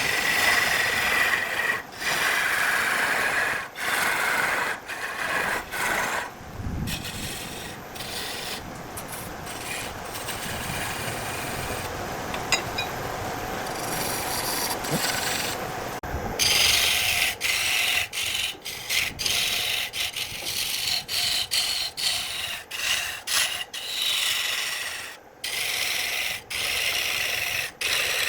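Wood being worked with an abrasive tool, a steady scraping and rubbing, broken by many sudden short gaps.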